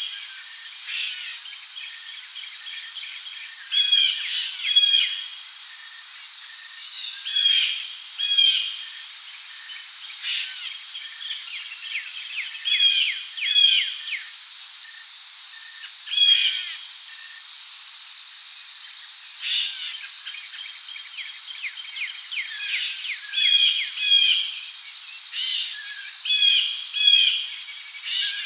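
Rainforest ambience: insects keep up a steady high-pitched drone while birds call over it, repeating short phrases of a few quick falling notes every few seconds.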